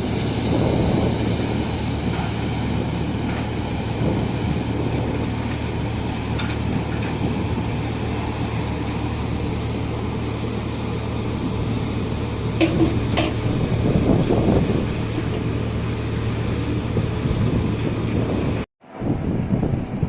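Steady low mechanical drone of running machinery or engines, with a couple of short sharp clicks about thirteen seconds in. The sound cuts out for a moment near the end.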